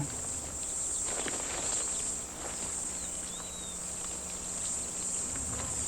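Steady high-pitched chirring of insects in grassland, with faint rustling noise and a brief faint whistle about three and a half seconds in.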